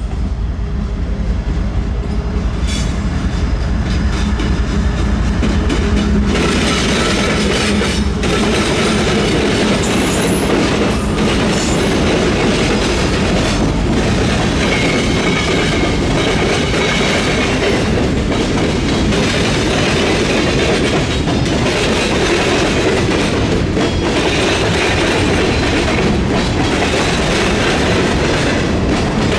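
Freight train cars rolling over a railroad diamond crossing, steel wheels clacking through the crossing gaps in a continuous run, with a brief high wheel squeal partway through.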